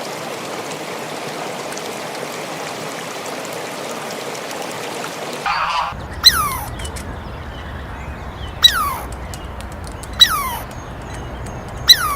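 A steady hiss, then a bird gives four short cries, each falling steeply in pitch, about two seconds apart.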